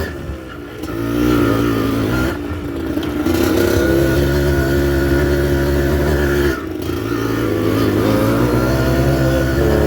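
Yamaha DT 125 two-stroke single-cylinder enduro motorcycle engine running under throttle. It drops off sharply at the start, again about two and a half seconds in and near six and a half seconds, and picks back up each time, as when the throttle is rolled off or a gear is changed.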